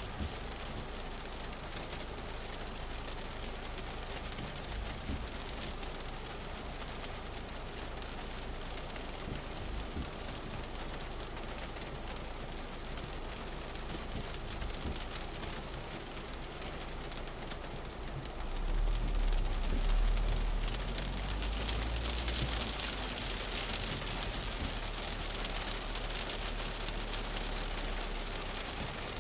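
Heavy rain falling on a car's roof and windscreen, heard from inside the cabin as a steady hiss. About two-thirds of the way through, a low rumble swells for a few seconds and the rain hiss grows louder.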